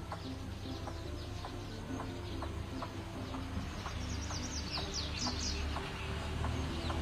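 White-breasted waterhens calling: short clucking notes repeated about twice a second, with bursts of high, falling chirps around the middle and near the end.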